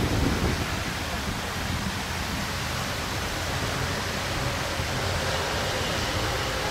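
Bangladesh Railway passenger train's coaches rolling along the track: a steady rushing rumble, with a brief thump at the start.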